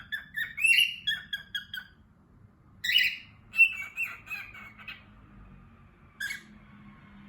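Pet cockatiels and a budgerigar chirping in quick runs of short notes. There is a louder call about three seconds in, another run of chirps after it, and a single call near the end, with pauses between.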